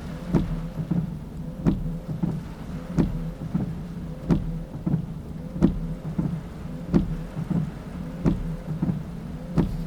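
Car windscreen wipers knocking regularly, a strong beat about every 1.3 seconds with lighter ones between, over heavy rain on the car and a steady engine hum heard from inside the cabin.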